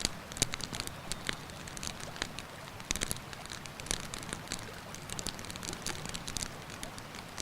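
Wood campfire crackling, with irregular sharp pops and snaps several times a second, over the steady rush of a river.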